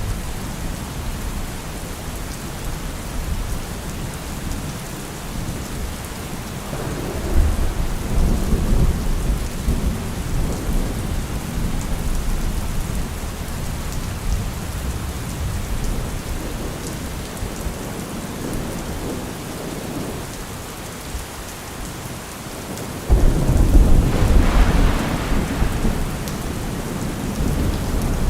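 Steady heavy rain with rolling thunder: one rumble swells about a quarter of the way in, and a louder clap of thunder breaks in suddenly near the end and rumbles on for a few seconds.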